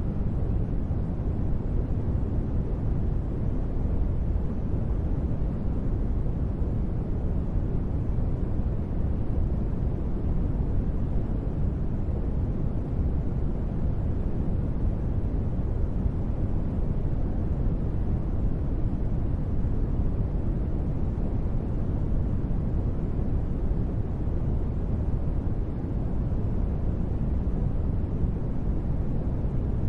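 Steady ambient noise bed of the kind sold as white noise for sleep, deep and rumbling rather than hissy, with no tones, beats or changes.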